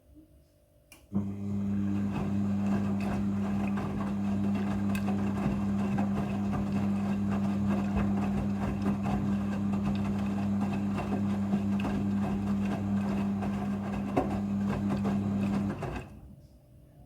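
Midea front-loading washing machine starting a steady electric hum with water rushing about a second in, during its rinse cycle. It runs evenly for about fifteen seconds, then cuts off near the end.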